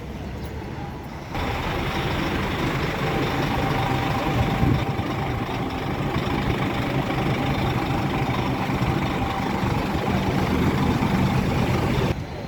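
Scania coach running, a steady engine drone with road noise and a faint whine. It starts abruptly about a second in and cuts off abruptly near the end.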